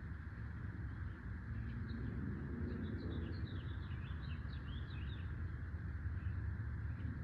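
Small birds chirping in a quick run of short high chirps through the middle, over a steady low rumbling background noise.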